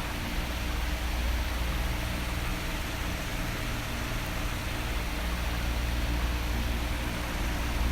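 Electric fan blowing: a steady whoosh of moving air with a faint low motor hum underneath.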